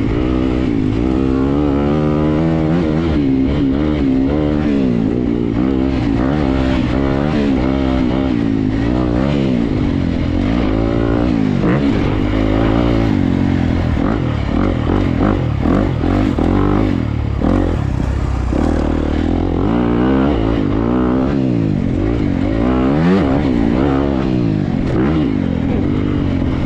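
Honda CRF250RX dirt bike's four-stroke single-cylinder engine being ridden hard, its pitch climbing and dropping over and over as the throttle is opened and chopped and the gears change.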